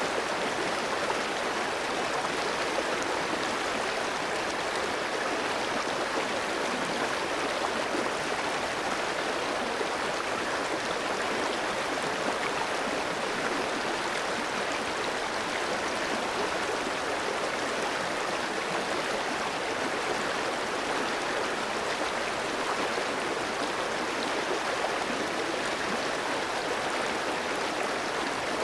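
Clear stream flowing over rocks: a steady, even rush of water without pause or change.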